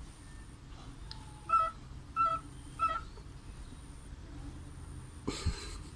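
A pet parrot gives three short calls, evenly spaced about two-thirds of a second apart, followed about five seconds in by a brief rustle.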